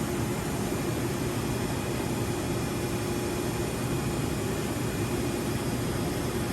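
Steady hum and hiss of a Johnford DMC-1200HN gantry CNC machining center running under power, with a faint steady tone over the noise.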